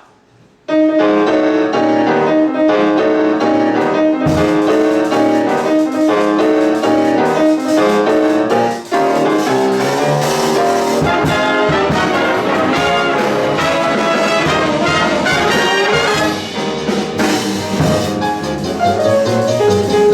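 Swing-era jazz big band playing live, with saxophones, trumpets, trombones and a piano, guitar, bass and drums rhythm section. The band comes in about a second in. Near nine seconds it breaks off briefly, then returns with fuller, busier ensemble playing.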